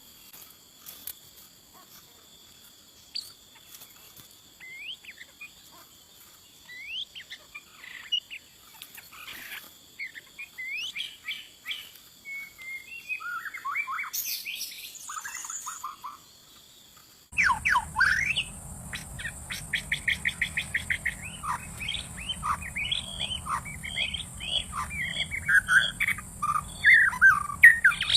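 White-rumped shama song: scattered faint whistled phrases over a steady high insect drone, then, about 17 seconds in, an abrupt switch to loud, fast, varied song with rapid trills over a low hum.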